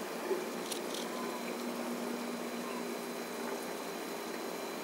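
Heavy thunderstorm rain pouring steadily, with a couple of sharp ticks about a second in.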